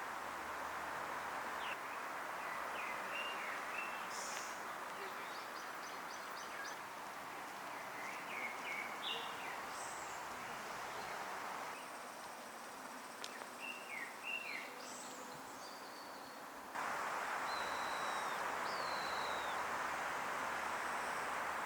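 Small birds chirping in short bursts of quick gliding notes, several times, over a steady outdoor hiss. The background level jumps suddenly a few times, as at cuts between recordings.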